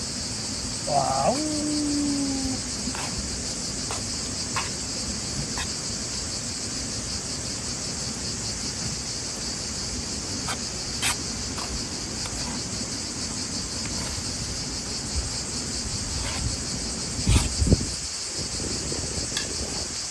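Insects chirring in a steady, high-pitched chorus with a fine rapid pulse, with scattered light clicks and a low thump near the end.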